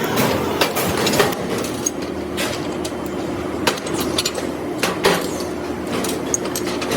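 Workshop machinery humming steadily, with irregular sharp knocks and clinks of hard parts being handled or struck.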